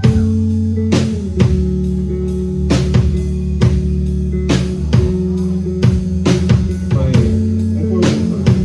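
Live rock band playing: drum kit keeping a steady beat, about two hits a second, over sustained bass and guitar chords, with a loud cymbal crash right at the start.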